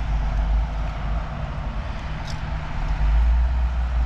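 Road traffic with heavy trucks passing: a steady low engine rumble that swells louder about three seconds in.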